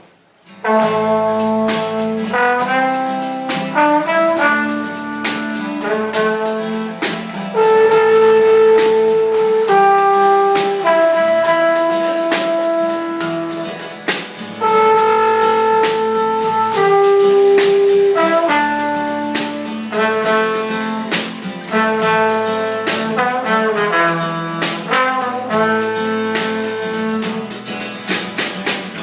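Live jazz band music: a horn line plays a melody of held notes over a steady beat, starting abruptly about half a second in.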